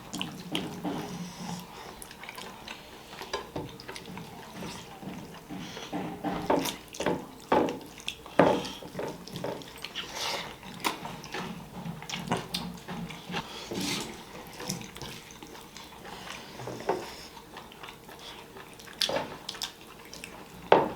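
Close-up wet eating sounds of fish curry with rice: irregular smacking, squelching and chewing, with scattered clicks against the plate.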